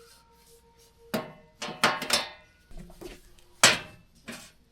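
Several sharp knocks and clatters of camp cookware and utensils being handled, the loudest about three and a half seconds in.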